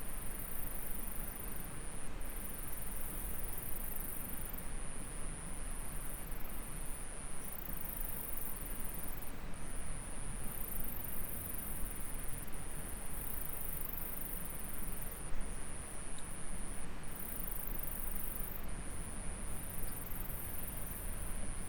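An insect trilling in a high, thin, steady pitch, in stretches of one to a few seconds with brief breaks, over the even rush of flowing stream water.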